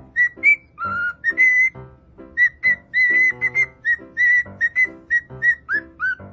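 Pet parrot whistling a tune in a quick run of short, clear notes, mostly on one high pitch, with a few swooping notes near the end.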